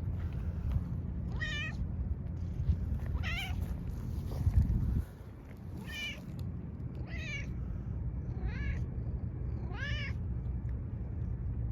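A cat meowing six times, short meows spaced one to two and a half seconds apart, over a steady low rumble that drops off about five seconds in.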